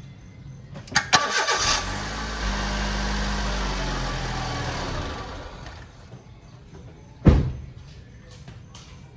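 Honda Civic engine cranked by the starter and catching, running steadily for a few seconds, then switched off and dying away. A single sharp knock follows about seven seconds in.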